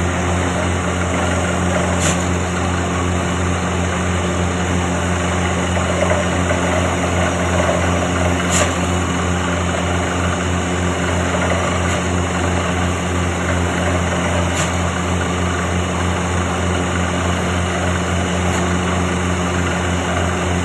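An engine running steadily at constant speed, with a faint tick about every six seconds.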